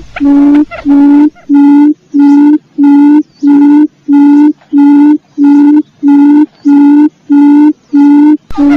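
Quail lure call: a low hooting note repeated evenly about twice a second, used to draw in wild quail. About a second in, the background hiss drops away and the notes sound cleaner.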